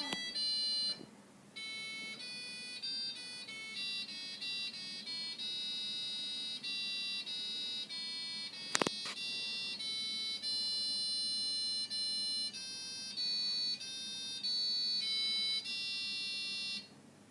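Fisher & Paykel washing machine's electronic beeper playing a national anthem tune in demo mode: a melody of pure beep notes of varying length. A single sharp click comes about nine seconds in.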